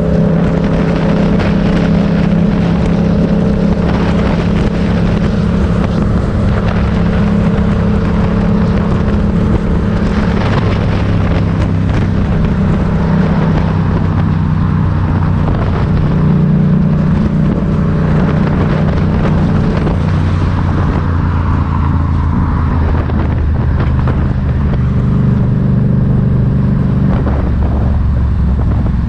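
Motorcycle engine running under way, its pitch holding and then shifting up or down every few seconds as speed and gears change, with steady wind noise.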